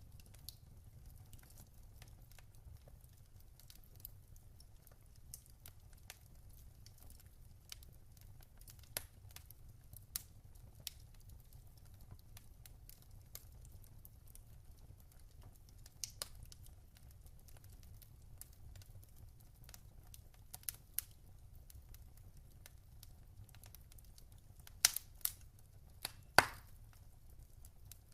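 Wood fire crackling in a fireplace: scattered sharp pops and crackles over a low steady rumble, with a few louder pops close together near the end.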